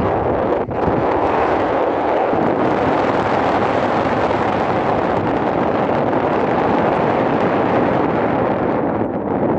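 Loud, steady rushing of wind buffeting the microphone, dropping away briefly just under a second in.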